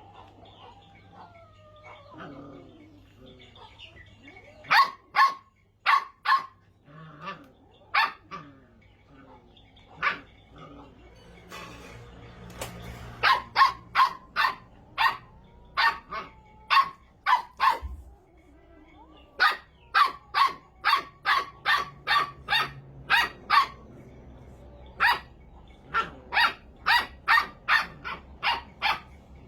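Puppy barking repeatedly in short, sharp yaps, scattered at first and then in quick runs of about two a second.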